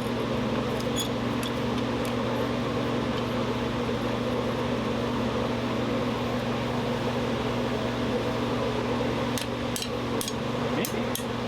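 Steady mechanical hum of a fan or blower motor running. A few light clicks sound over it, near the start and again near the end.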